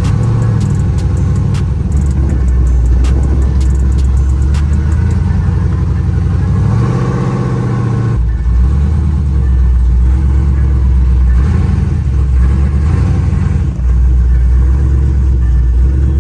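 Truck engine running loudly and revving, its pitch rising and falling, with a climbing rev about halfway through.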